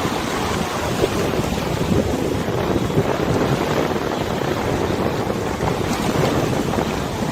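Wind buffeting the microphone over the steady rush and lapping of a wide river's water.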